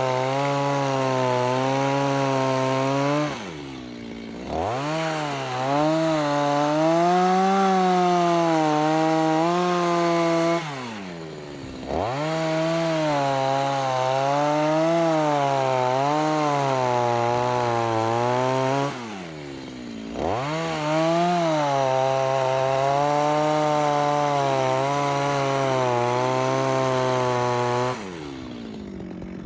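Two-stroke chainsaw running at high revs, cutting into a log, its note wavering under load. Three times the revs drop briefly and come back up, and near the end they fall away.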